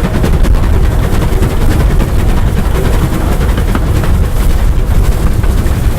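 Steam locomotive working hard, its exhaust beats coming in a rapid, steady stream over a heavy low rumble, with wind buffeting the microphone.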